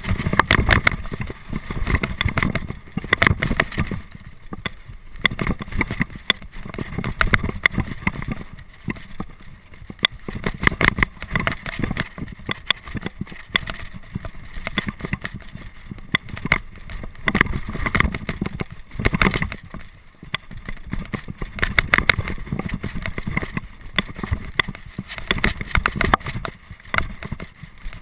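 Mountain bike ridden fast over rough ground: wind buffeting the microphone in irregular gusts, with the bike clattering and rattling over bumps throughout.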